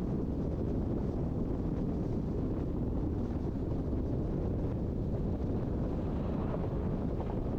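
Passenger train running along the track, heard on board as a steady low rumble of wheels and carriage.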